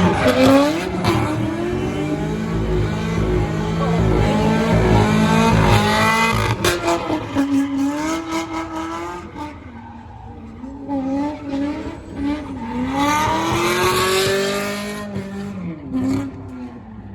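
Drift car's engine revving hard, its pitch rising and falling as the throttle is worked, with tyre squeal. Loudest in the first half; it rises once more near the end, then drops away.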